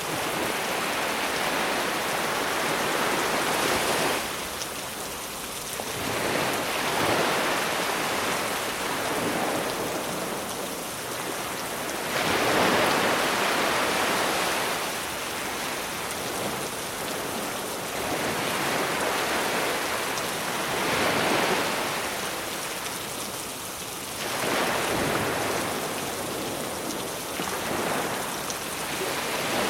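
Sea waves surging onto a beach, swelling and falling every four or five seconds, under a steady hiss of rain.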